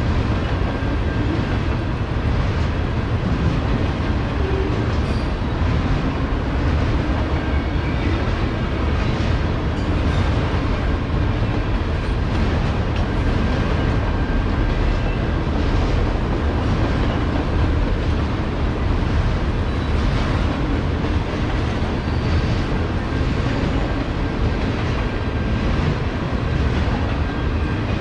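Freight train of enclosed autorack cars rolling past, its steel wheels running steadily on the rails.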